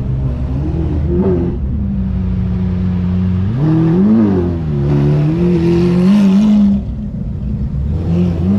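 Car engine revving: a steady run, then rising to a peak about four seconds in, falling back, held, and dropping away about seven seconds in.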